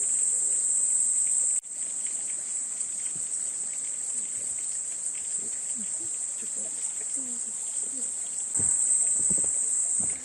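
A steady, shrill insect chorus, with faint voices underneath. It drops suddenly in level about a second and a half in and comes back louder near the end.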